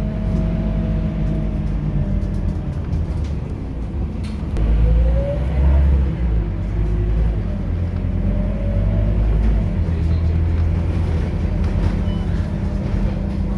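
Scania K230UB city bus engine running under way, a steady low rumble with a whine that rises in pitch about four seconds in, when the engine briefly gets louder, and again a few seconds later as the bus picks up speed.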